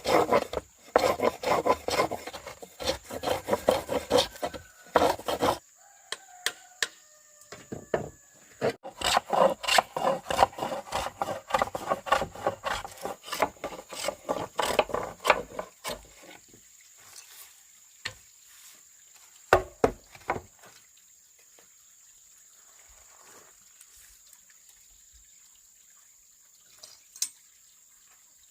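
Hand saw cutting, in two spells of quick back-and-forth strokes; the second spell ends about halfway through. A few scattered knocks follow.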